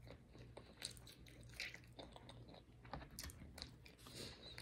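Faint eating sounds: quiet chewing with scattered soft clicks.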